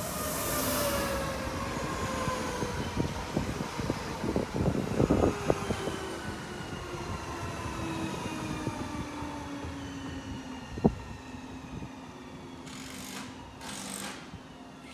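Alstom Coradia Nordic (X61) electric multiple unit passing at speed close by: a falling electric whine from the traction motors, with a run of clicks and knocks from the wheels over rail joints. Later a steady hum as another train comes in, with a sharp click and two short hisses near the end.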